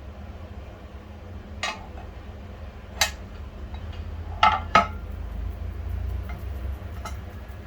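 Small metal pieces clinking and knocking about five times, two of them in quick succession near the middle, over a steady low hum.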